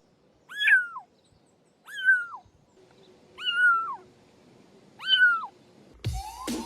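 Cat meowing four times, each meow rising and then falling in pitch, about a second and a half apart.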